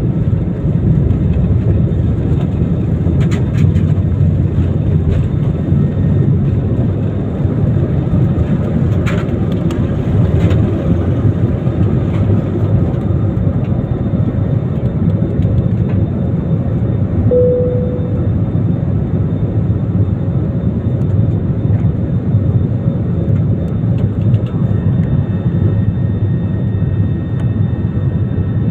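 Airbus A320ceo's twin turbofan engines during takeoff, a loud, steady low rumble that holds level throughout.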